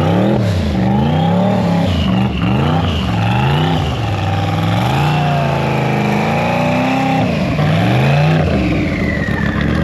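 A twin-turbo LS V8 in a BMW E36 revving up and down over and over, its pitch swinging roughly once a second as the throttle is worked while the car slides, with a fainter high whine rising and falling alongside.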